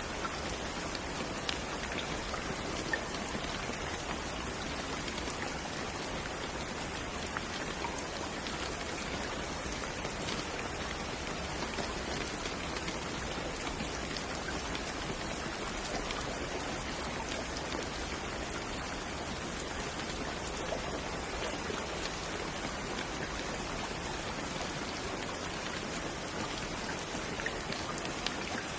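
Steady rain falling, an even hiss of noise with scattered faint drop ticks.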